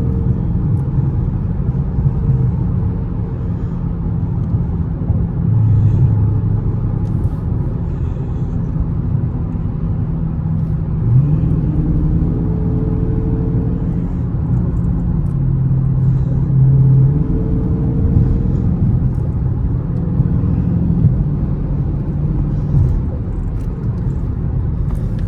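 Dodge Charger Scat Pack's 6.4-litre HEMI V8 running while driving: a steady low rumble whose pitch steps up and drops back several times as the throttle and gears change.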